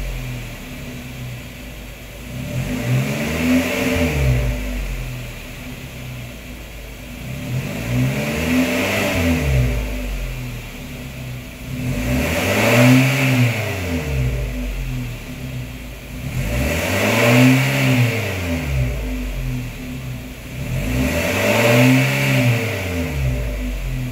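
A CMC J Space van's 1.5-litre naturally aspirated engine free-revving through an aftermarket exhaust with a header, 300-cell metal catalytic converter, centre single muffler and 3.5-inch stainless tip. Five revs, about every four to five seconds, each rising in pitch and falling back to idle.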